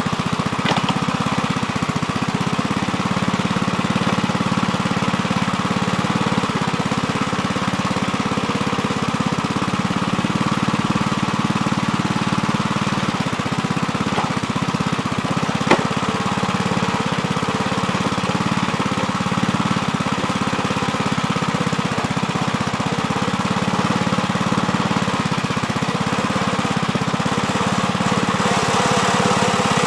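Gravely Terramite backhoe's engine running steadily, with one sharp clack about halfway through.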